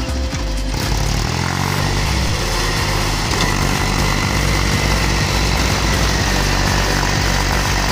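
Mahindra tractor's diesel engine running steadily and loudly.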